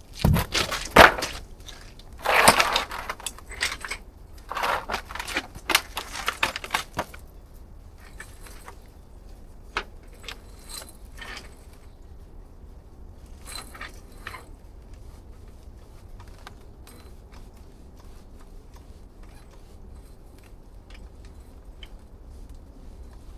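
Clattering and scraping of hard objects being handled, in irregular bursts over the first seven seconds, then scattered light clicks.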